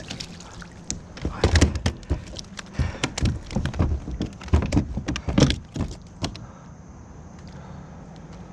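Irregular hollow knocks and clatter of gear being handled against a kayak, thickest between about one and six seconds in. The sound then settles to a steady low background.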